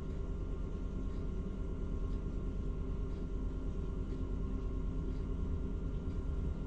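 Engine of a working crane truck running steadily, a constant low rumble.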